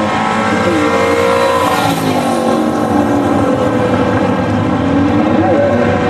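High-performance V8 car engine running hard, its pitch sliding down and climbing again through the revs.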